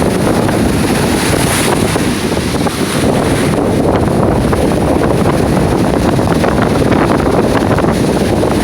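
Strong wind on the microphone over a stormy sea with waves breaking: a steady, loud rush of noise.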